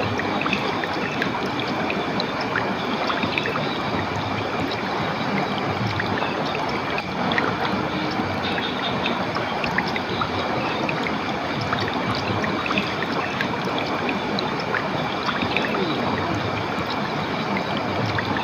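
Running water of a stream or small waterfall, flowing and splashing steadily.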